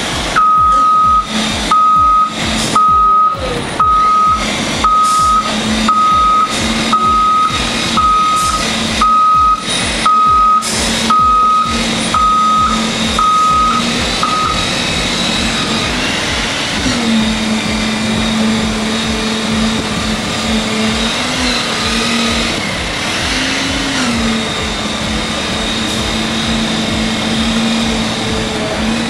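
A heavy vehicle's backup alarm beeping about once a second, then stopping about halfway through, over the vehicle's engine running steadily; the engine note wavers slightly near the end.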